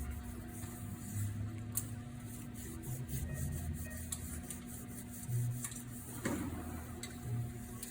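An ultra-fine Scotch pad rubbing and scraping in uneven strokes against the inside of a vintage Honda motorcycle's rear brake drum, deglazing its glazed braking surface, with a few sharp clicks.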